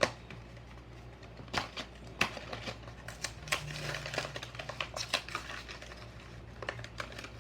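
A Hot Wheels blister pack being opened by hand: the plastic blister and cardboard card crackle and snap in an irregular string of sharp clicks.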